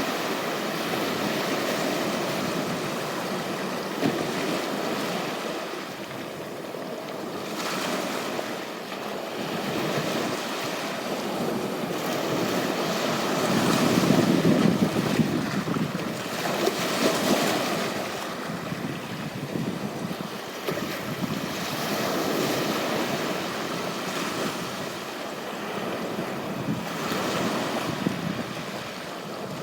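Ocean surf washing onto a beach, the noise of the waves swelling and easing every few seconds, loudest about halfway through.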